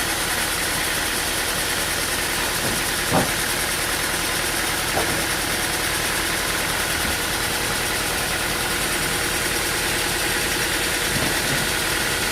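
Engine running steadily at idle, with a sharp knock about three seconds in and a lighter one about two seconds later.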